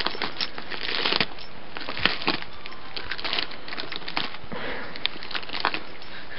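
Christmas wrapping paper crinkling and tearing in irregular crackly rustles as a small dog paws and pulls at the present to unwrap it.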